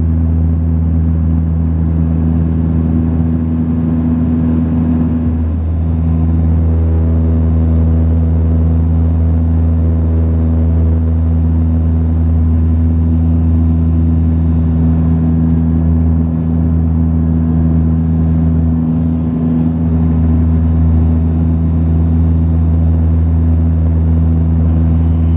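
Cabin drone of a Saab 340B turboprop airliner in flight: its two General Electric CT7 turboprop engines and propellers make a steady, loud low hum with several fixed tones.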